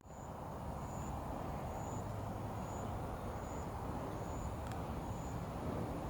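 Steady outdoor background hum, like distant traffic, with a faint high-pitched chirp repeating a little faster than once a second.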